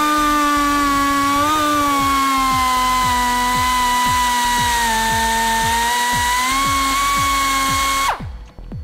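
Die grinder whining steadily as it cuts an exhaust-tip opening into the car's rear fascia, its pitch wavering slightly as the load changes, then shutting off abruptly near the end.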